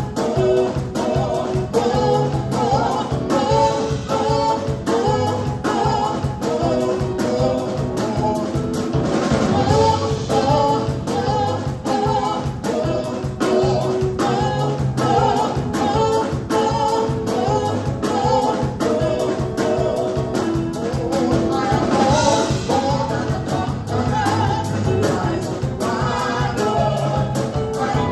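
Live gospel praise band playing with a group of singers, over a steady drum beat and a strong bass line.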